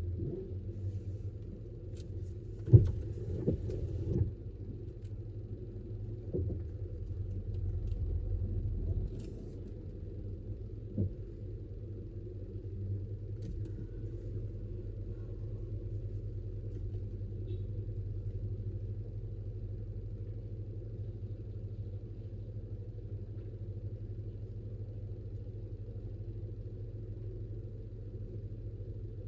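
Steady low road rumble of a car heard from inside the cabin while driving, with a few sharp knocks about three seconds in and a single click later.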